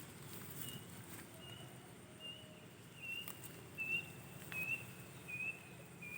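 A bird calling a short high chirp over and over, a little more than once a second, the pitch drifting slightly lower as it goes on, with a few faint clicks.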